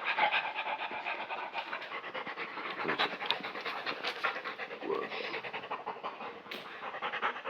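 A dog panting rapidly and steadily, in quick even breaths.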